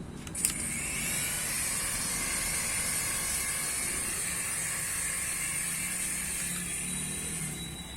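Small toy helicopter's motor and rotor whirring: a click about half a second in, then a steady high buzzing whir that dies away near the end.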